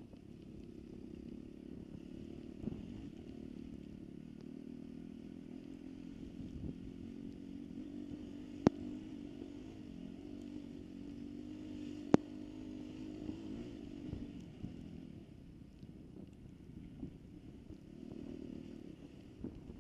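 Dirt bike engine running steadily at an even pitch, with two sharp clicks, one a little under halfway through and another about three and a half seconds later.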